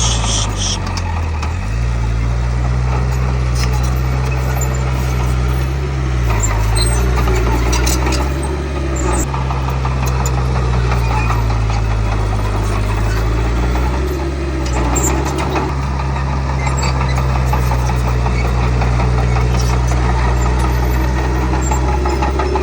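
Heavy diesel engine of earthmoving machinery running steadily. Its pitch rises about two seconds in, then sags and recovers twice as the engine takes and sheds load.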